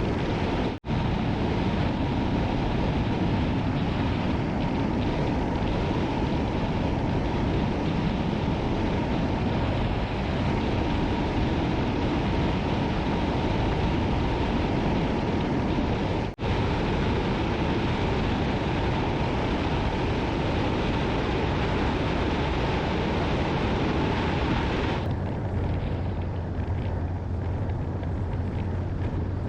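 Wind rushing over the microphone and road noise from a Honda motorcycle riding at speed. Twice the sound drops out for an instant. About 25 seconds in, the high hiss eases and a low, steady engine hum comes through.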